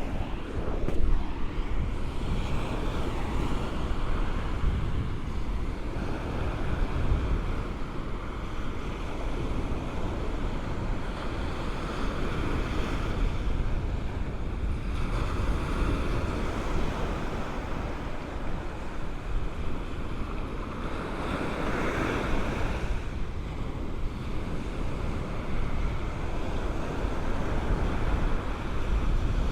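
Ocean waves breaking and washing up on a sandy shore, swelling and easing, with wind rumbling on the microphone.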